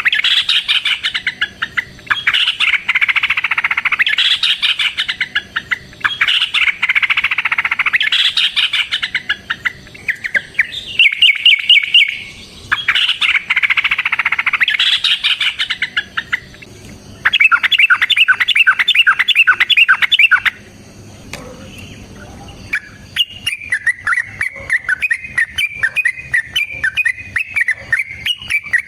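Yellow-vented bulbuls (trucuk) giving a loud, long-rolling fighting call: dense chattering phrases of about two seconds each, with fast rattling trills about 11 s in and again from about 17 to 20 s. After a short lull, a quicker run of notes follows near the end.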